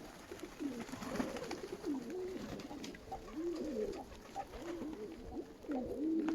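Several Nikolaev pigeons cooing, a run of short rising-and-falling coos that repeat and overlap one another.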